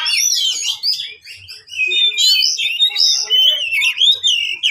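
Oriental magpie-robin (kacer) singing a rapid, varied run of whistles and chirps in a heated territorial bout, breaking off briefly about a second in before going on.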